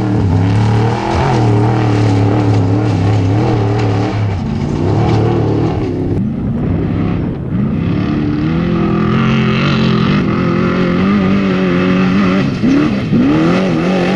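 Off-road race vehicle engine running hard at speed, its pitch rising and falling as it accelerates and passes, with quick rising revs near the end.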